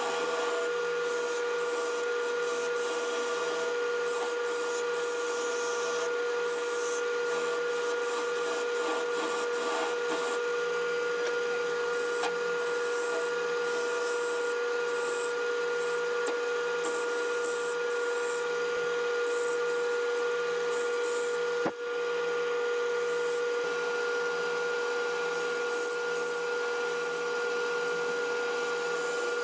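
Wood lathe running with a steady motor whine while a turning tool cuts a spinning maple blank, the high scraping hiss of the cut coming and going as the tool is pressed in and eased off. The sound briefly dips about two-thirds of the way through.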